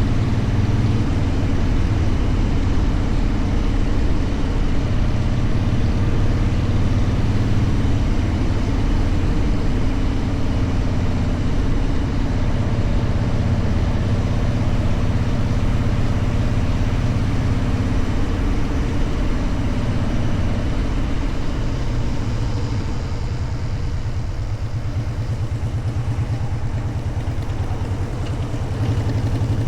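Motorcycle engine running under way, with rushing wind and road noise on the rider's camera. The engine note and level ease off a little about two-thirds of the way through, then pick up again near the end.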